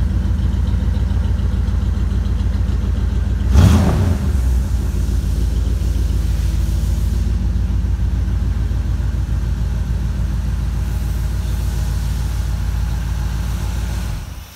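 1959 Pontiac Bonneville's V8 running at a steady, lumpy idle, with one quick throttle blip about three and a half seconds in. The engine sound cuts off suddenly near the end.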